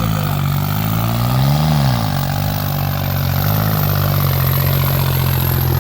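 New Holland 3630 tractor's diesel engine running, its pitch sagging and climbing back up about a second and a half in, then holding steady.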